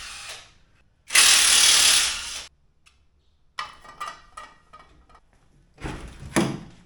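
Mechanic's tools at work: a loud, even burst of noise lasting about a second and a half, then scattered clicks and short metallic knocks.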